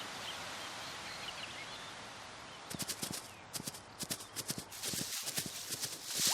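Quick, irregular hoof taps of a small hoofed animal trotting, starting a little under halfway in, over a steady soft outdoor hiss.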